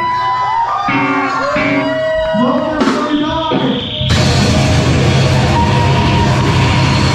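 Live heavy rock band playing: bending guitar tones and yelled vocals for the first few seconds, then the full band crashes in about four seconds in with a dense wall of distorted guitars and drums.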